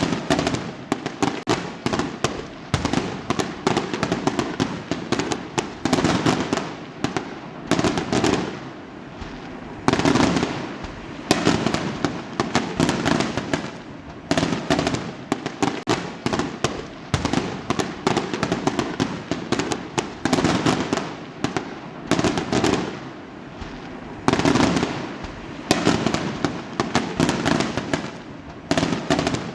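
Fireworks going off in rapid, overlapping volleys of sharp cracks and bangs, dense crackling clusters with brief lulls between them.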